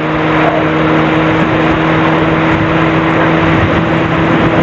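Sportbike engine running at a steady pitch at road speed under a loud, even rush of wind.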